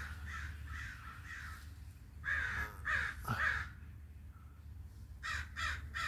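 Crows cawing: a run of fainter caws, then three loud caws about half a second apart, and near the end a quick series of four short caws. A steady low hum runs underneath.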